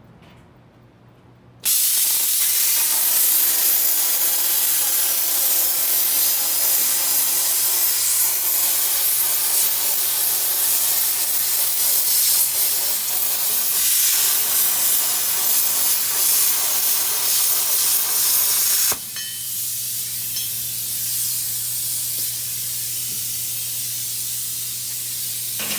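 Hypertherm Powermax1000 plasma cutter cutting 304L stainless steel: a loud, steady hiss of the arc and air jet starts about two seconds in, over a low machine hum. A few seconds before the end it drops to a quieter rush of air from the torch, then cuts off.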